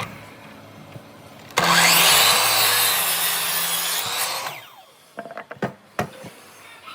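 A power tool cutting wood for about three seconds, starting a second and a half in, then its motor winding down. A few sharp knocks of wood follow.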